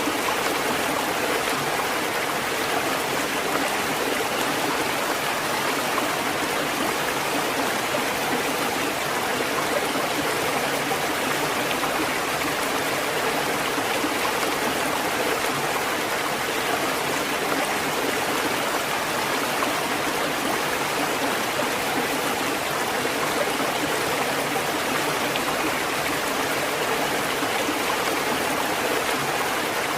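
Steady rushing water, an even hiss with no rise and fall of breaking waves.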